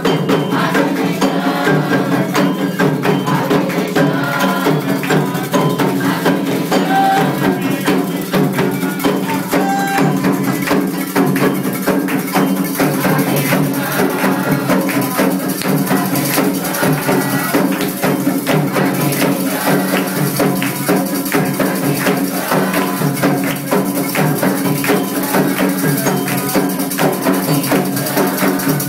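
Candomblé ritual percussion: drums with struck and shaken instruments playing a dense, steady rhythm.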